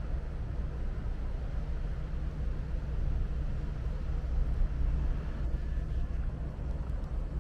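Steady low rumble with a faint hiss: the ambience of an open deck on a large cruise ship, where the ship's machinery and the air moving past blend together.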